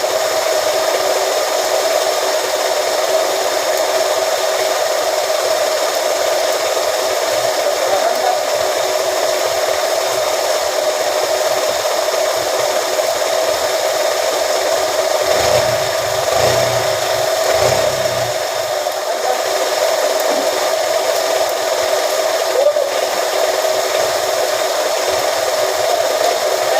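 A machine motor running steadily with a constant whining hum, with a short low rumble about two-thirds of the way through.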